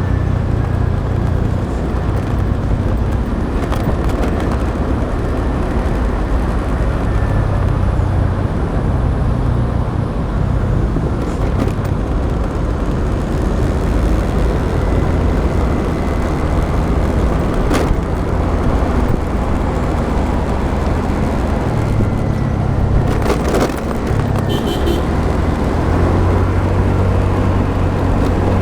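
Motorbike riding in traffic heard from a rider-mounted action camera: a steady, fluctuating rumble of wind on the microphone, engine and tyres on the road. A few brief sharp clicks break through.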